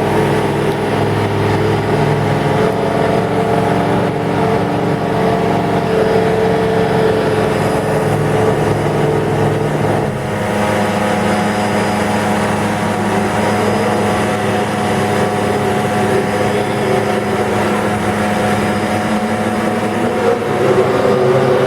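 Race car engines running at steady revs as the cars leave the pit lane. The engine note holds level, shifts to a different pitch about ten seconds in, and changes again near the end.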